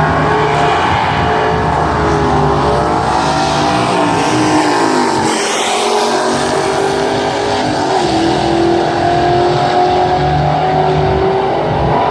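Drag-racing car at full throttle down the strip, the naturally aspirated 5.7-litre HEMI V8 of a Dodge Challenger R/T. Its pitch climbs through each gear and drops at the upshifts, about five and eight seconds in.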